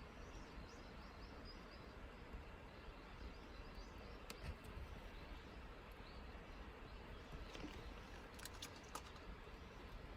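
Faint outdoor ambience: a steady low hiss with a few faint high chirps and short ticks, twice in quick clusters.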